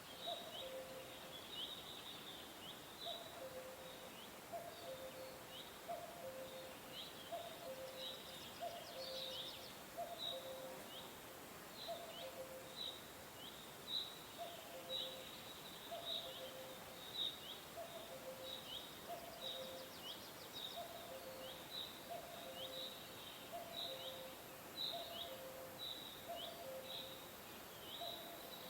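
Birds chirping: a steady run of short, high chirps that fall in pitch, about two a second, over a lower two-note call that repeats about once a second.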